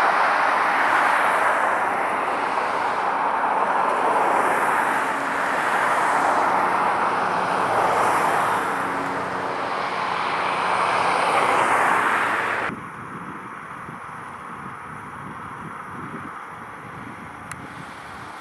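Loud road-vehicle noise, a rushing haze that swells and fades every few seconds. It cuts off abruptly about two-thirds of the way through to a much quieter street background.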